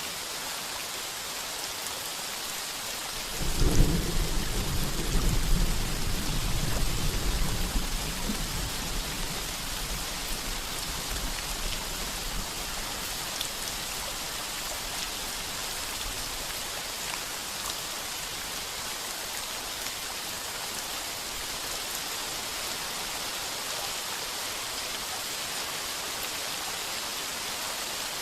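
Heavy rain pounding steadily on a tin roof. About three and a half seconds in, a thunderclap breaks out and rumbles on, fading away over the next several seconds.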